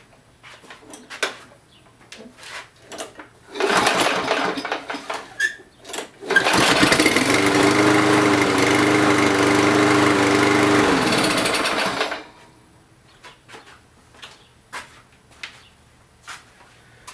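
Walk-behind lawn mower engine pull-started after water was cleaned out of its carburettor: a short loud burst about four seconds in, then it catches on the next pull about six seconds in, runs steadily for about six seconds, and stops.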